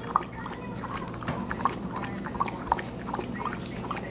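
Dog lapping water close to the microphone: irregular wet clicks, a few a second.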